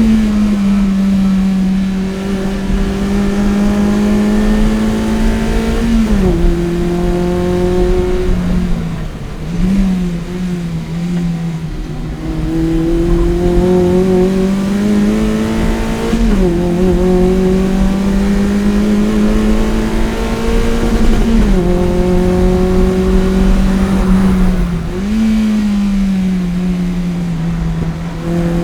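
Toyota 1ZZ-FE four-cylinder engine with an aftermarket header and Fujitsubo exhaust, driven hard: its pitch climbs steadily through each gear, then drops suddenly at a gear change, several times over.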